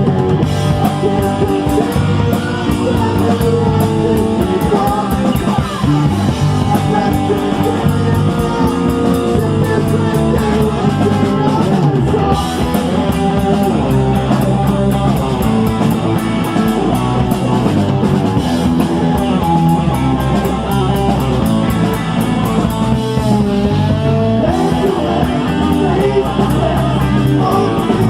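Live rock band playing a heavy metal song: electric guitar, bass guitar and drum kit with a male lead singer, loud and continuous.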